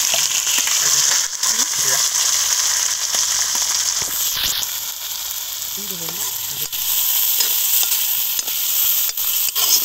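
Sliced onions, garlic and whole spices sizzling steadily in hot oil in a wide karahi, with a spatula scraping and knocking against the pan now and then as they are stirred.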